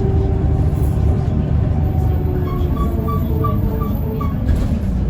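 Inside a Mercedes-Benz O405N2 city bus on the move: steady engine and road rumble with a whine that slowly falls in pitch as the bus slows. About halfway through, six short high beeps sound about three a second, and near the end a hiss of air starts.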